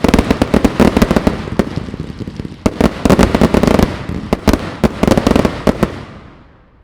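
Aerial fireworks display: a dense, rapid barrage of bangs and crackles, fading away about six seconds in.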